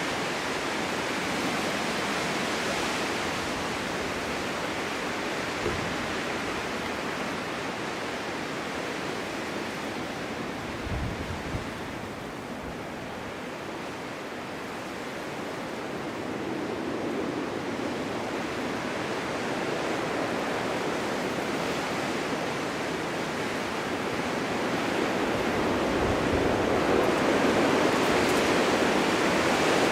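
Winter wind blowing in a steady rushing hiss that eases a little around the middle and builds again toward the end, with a couple of brief low thumps.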